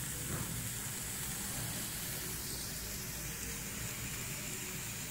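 Stir-fry of sliced carrots, tomatoes, onions and black olives sizzling steadily in a frying pan.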